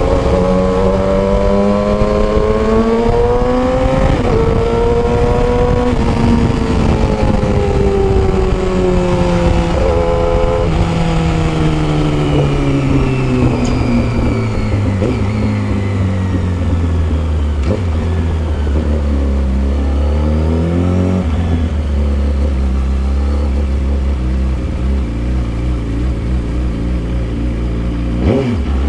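Yamaha R6's 600cc inline-four engine through a custom exhaust, under way: revs rise and drop a few times with gear changes, fall away for a long stretch, hold low and steady, then climb sharply again near the end.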